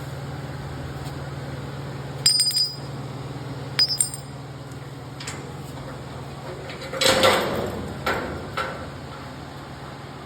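Steel parts in a fabrication shop clanking: a couple of sharp ringing metallic strikes, then a longer metal clatter about seven seconds in. A steady low hum stops about two seconds in.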